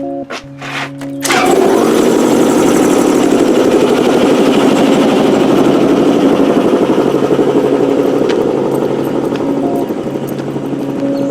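A vehicle engine cuts in abruptly about a second in and runs loudly with a fast, rough pulse, over background music.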